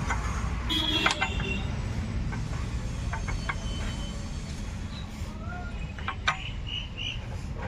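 Metal hand tools clicking and clinking against engine parts during timing work, in scattered single taps with a brief ringing clink about a second in and the sharpest click near the end. A steady low rumble runs underneath.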